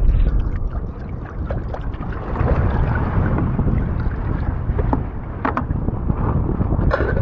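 Wind rumbling on the microphone over a stormy sea, with water splashing against a bamboo raft and scattered sharp splashes or knocks, a cluster of them near the end.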